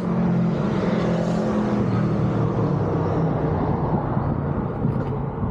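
2006 Yamaha R6's inline-four engine idling steadily through its stock exhaust.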